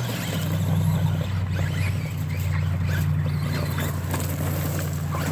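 Traxxas Rustler VXL RC trucks' electric drivetrains running with a steady low hum that drops in pitch just at the start and then holds.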